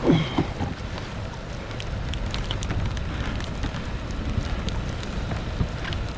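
Light rain falling on the water around a kayak: a steady hiss with many small scattered ticks of drops, and a short knock right at the start.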